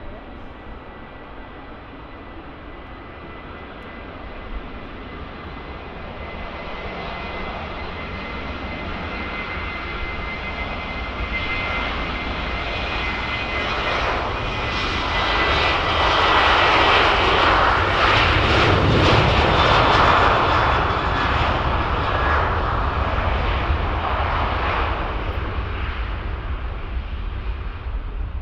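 Boeing 737-800's CFM56 jet engines on departure: a steady whine over a rumble that grows louder as the jet passes, loudest about two-thirds of the way through, then slowly fading.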